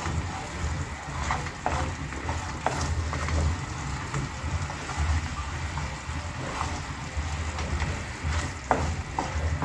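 Popcorn chicken pieces being stirred in a pan of thick, hot honey garlic sauce: the sauce sizzles and bubbles, with scattered clicks of the utensil against the pan over a low rumble.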